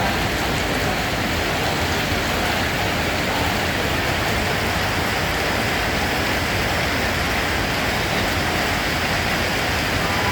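Steady heavy rain falling: an even hiss of rain with no distinct drops, no thunder and no changes.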